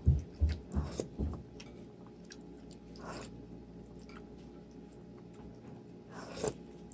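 Soft chewing and eating sounds with small clicks, busiest in the first second or so, then fainter.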